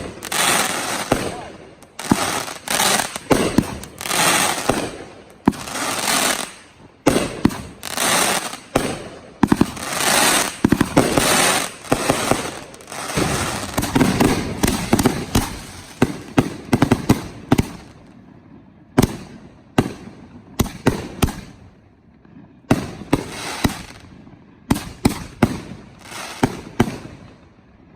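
Professional fireworks going off: a dense run of overlapping bangs and crackling bursts, thinning after about two-thirds of the way into separate sharp reports with short gaps between them.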